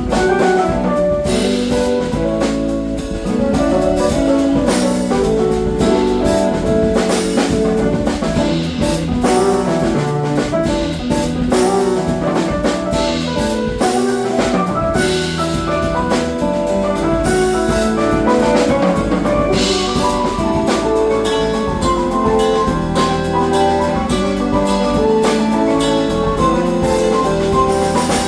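Live funk band playing, with drum kit and sustained melodic instrument lines.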